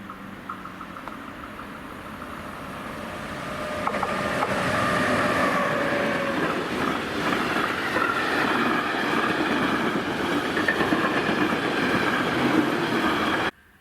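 A train passing on the line, its rolling noise growing louder over the first few seconds and then staying loud, with steady whining tones over the rumble. The sound cuts off suddenly near the end.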